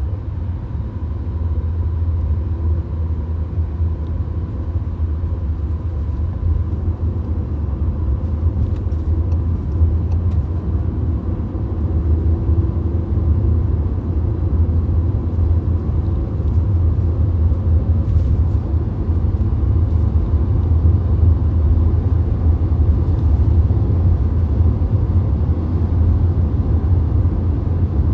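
Steady road and engine rumble inside a VW Golf's cabin at motorway speed, deep and even throughout.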